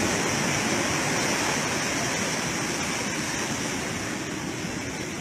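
Rush of large breaking ocean waves and their wash, a steady roar of surf that slowly eases off through the second half.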